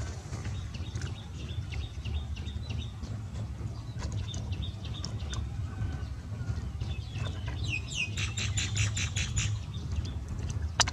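Small birds chirping, with a fast run of about a dozen notes near the end, over a steady low rumble.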